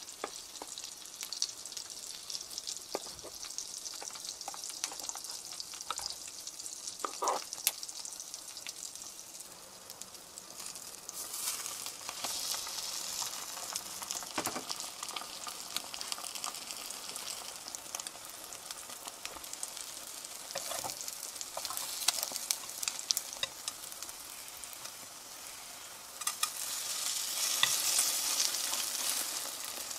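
Egg-soaked bread slices frying in a nonstick pan, a steady sizzle with scattered crackles and pops. The sizzle is quieter with a few clicks at first, grows louder about a third of the way in, and swells again near the end.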